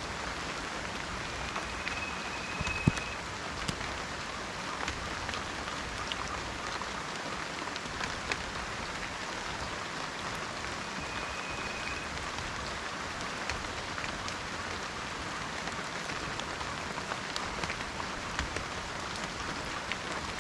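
Steady rain falling on forest foliage, a dense even patter with scattered sharper drops and one louder drop hit about three seconds in. A thin, high whistle sounds briefly twice, once near the start and once about halfway through.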